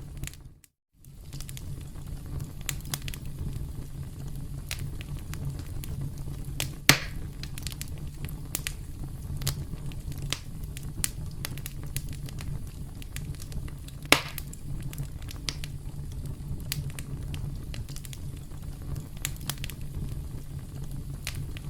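Campfire crackling over a steady low rumble, with scattered sharp pops from the burning wood; two pops stand out loudest, about seven and fourteen seconds in. The sound drops out briefly just under a second in.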